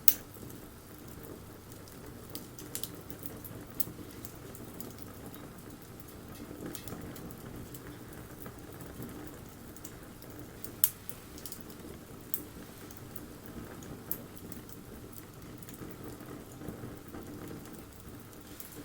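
Wood bonfire burning: a steady low rush of flame with scattered sharp crackles and pops, the loudest right at the start and about eleven seconds in.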